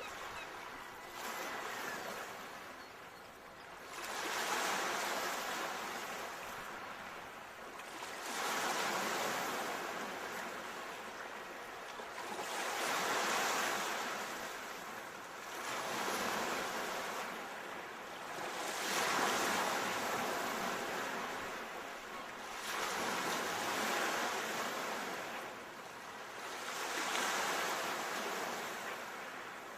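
Ocean waves washing in, a rushing hiss that swells and fades about every four seconds.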